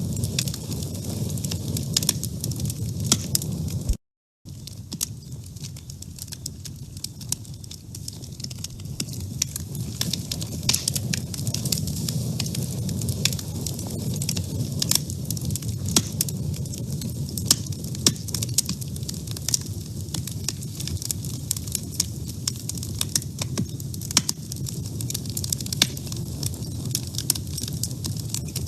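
Wood fire burning in a woodstove, with many irregular sharp crackles and pops over a low, steady rumble of flame. The sound cuts out completely for about half a second roughly four seconds in.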